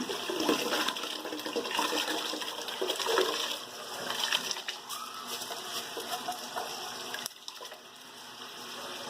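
Soaked rice being poured into a pressure cooker of boiling water: an irregular splashing, gushing pour with small grainy clicks, easing off about seven seconds in.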